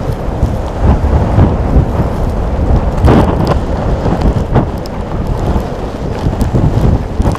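Strong blizzard wind buffeting the microphone: a loud, gusting rumble that rises and falls, with a few sharp crackles about three seconds in.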